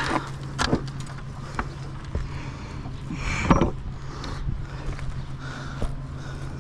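Sharp knocks and clatter of old bricks and mortar being broken off a chimney by hand, with the loudest clatter about halfway through. A steady low hum runs underneath.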